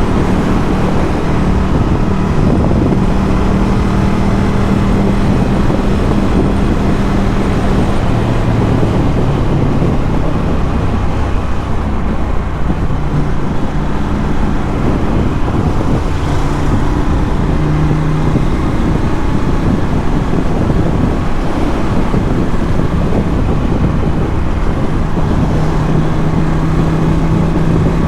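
Ducati Scrambler 1100's air-cooled L-twin engine through a Termignoni exhaust, running under way at an easy cruise. Its pitch drops about ten seconds in and climbs back up later on.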